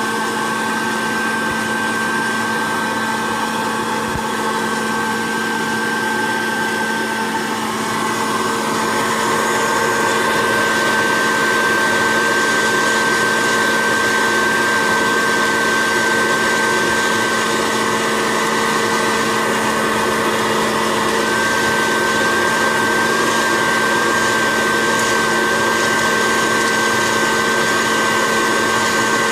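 Hot-air popcorn popper used as a coffee roaster, its fan and heater running with a steady whir and a thin high whine. It gets a little louder about a third of the way in.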